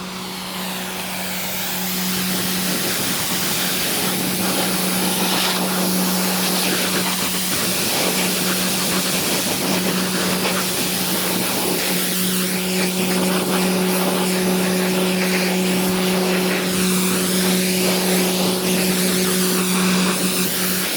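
High-pressure washer running, a steady motor-pump hum under the hiss of its water jet.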